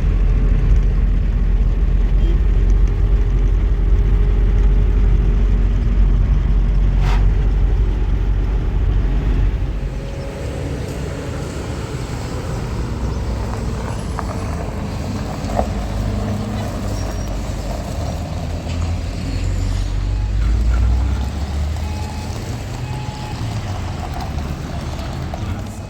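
Car engine running as the car moves off: a deep, heavy rumble for about the first ten seconds, then a lighter, steady running sound.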